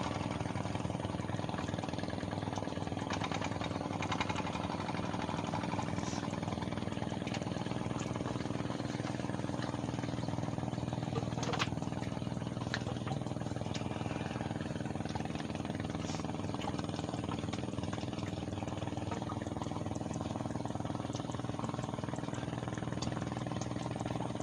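An engine running steadily at constant speed, with a few faint clicks about midway.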